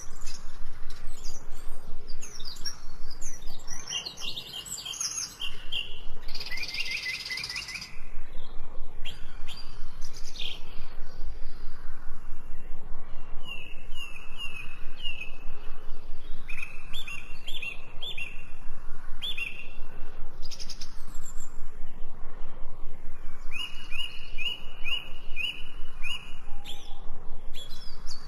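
Several songbirds chirping and singing, with runs of short, repeated whistled notes, one run near the middle and another near the end.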